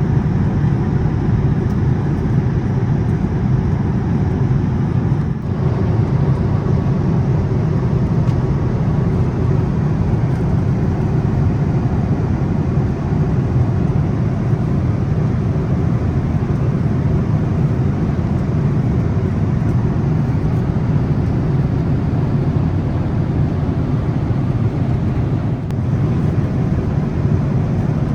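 Steady cabin noise inside a Boeing 787-8 airliner in flight: an even, low rumble of engines and airflow.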